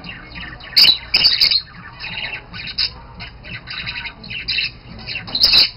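Budgerigars chattering in a continuous stream of rapid short chirps, with loud harsh squawks about a second in and again near the end.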